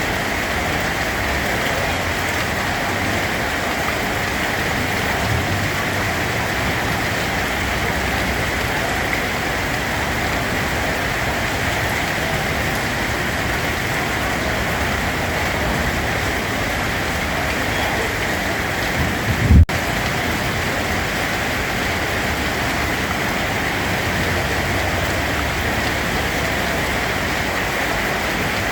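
Steady rain, an even hiss, with one brief low thump about two-thirds of the way through.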